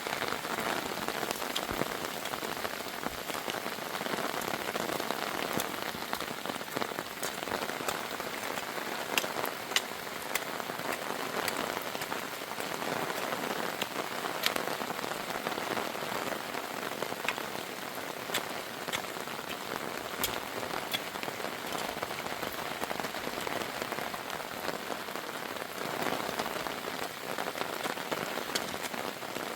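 Heavy rain falling steadily on a surface, with many sharp individual drop hits scattered through the steady hiss.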